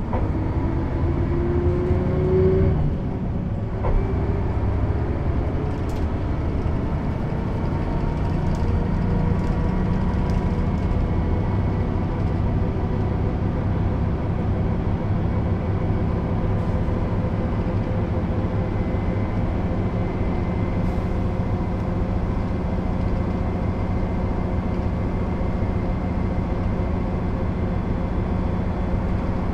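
Mercedes-Benz O 407 bus's straight-six diesel engine accelerating: its note rises for about three seconds, drops with a manual gear change and a knock, then climbs slowly and steadily in the next gear as the bus gathers speed.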